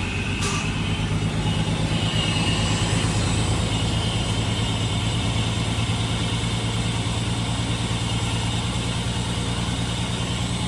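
Toyota Soarer's 2JZ-GTE twin-turbo inline-six idling steadily just after being started.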